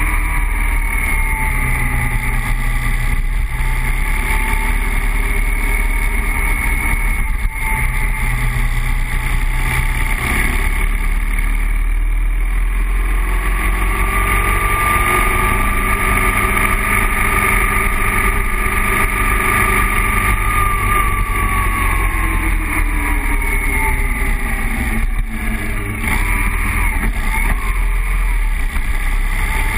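BMW R1200 boxer-twin motorcycle engine running under way, its pitch slowly rising and falling with the throttle, over a steady rush of wind on the microphone.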